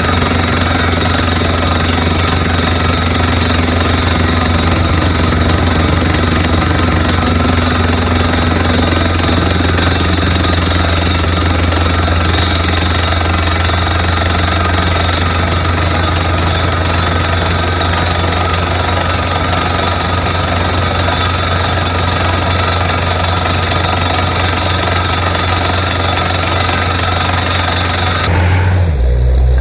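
Borewell drilling rig running hard: its air-driven down-the-hole hammer pounds rapidly and steadily under the drone of the rig's engine and compressor. Near the end the hammering stops abruptly, leaving a deeper engine sound.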